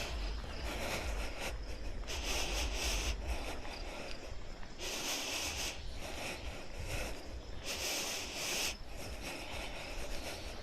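Outdoor ambience: a high, buzzy trill about a second long repeats roughly every three seconds, three times, over a steady low wind rumble on the microphone.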